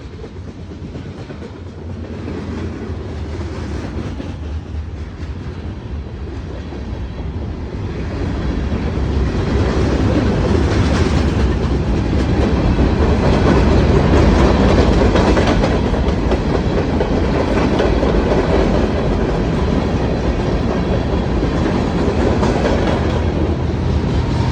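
Mixed freight train rolling past, its cars' wheels running over the rails. It grows louder over the first ten seconds, then holds steady.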